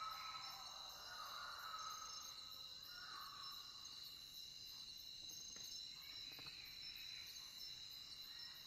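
Faint night chorus of crickets trilling steadily in several high, unbroken tones.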